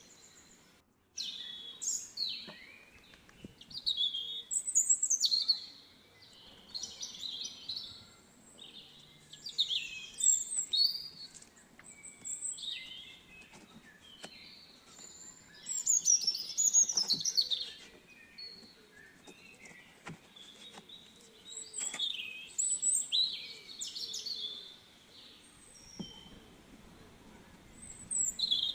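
Small songbirds singing and chirping: short phrases of quick, high notes and falling whistles, coming every second or two with brief pauses between.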